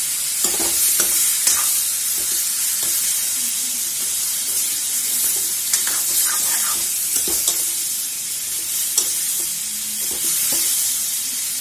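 Chicken pieces frying in hot oil in a metal kadhai: a steady sizzle, with frequent clinks and scrapes of a steel ladle stirring them against the pan.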